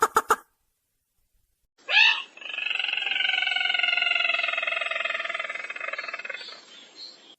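Recorded call of the sintar merah bird played as a trapping lure: the end of a quick run of sharp repeated notes, then after a pause one long rattling trill, slightly falling in pitch, lasting about five seconds.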